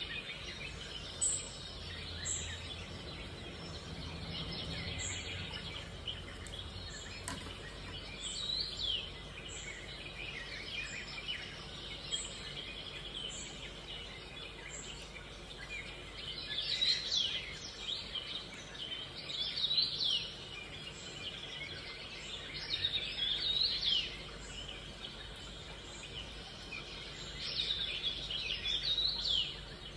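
Birds chirping in the background in scattered bursts of quick, falling calls, most active in the second half, over a steady faint hiss.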